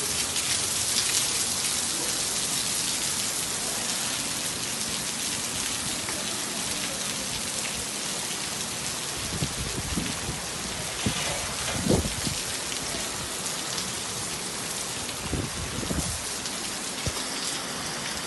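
Heavy rain falling steadily, a dense hiss, with a few short low thumps a little past the middle and again later.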